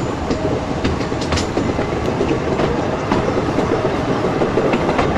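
Narrow-gauge mountain train running, heard on board through an open window: a steady rolling rumble of wheels on rail with scattered sharp clicks.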